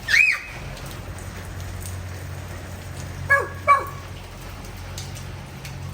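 Rain falling steadily. A loud short call cuts in at the very start, and two more short calls come about halfway through.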